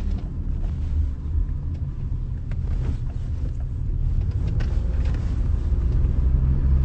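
Low, steady rumble of a car being driven, heard from inside the cabin; it grows a little louder near the end.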